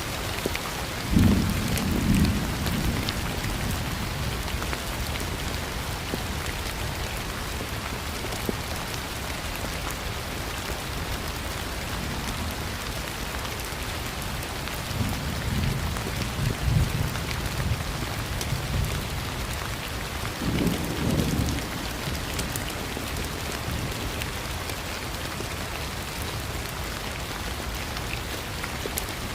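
Steady heavy rain with low rolls of thunder: one about a second in, a longer rumble around the middle, and a shorter one about two-thirds through.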